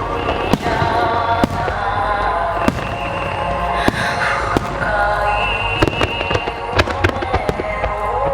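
Aerial fireworks going off in a rapid, irregular string of sharp bangs and crackles, over music with a sung or held melody.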